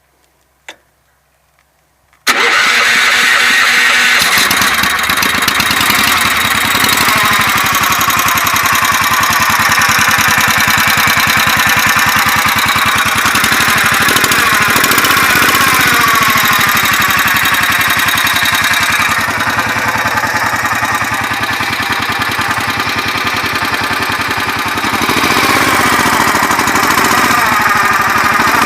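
Honda GX390 single-cylinder four-stroke petrol engine of a mini tractor starting suddenly about two seconds in, after a single click, then running steadily.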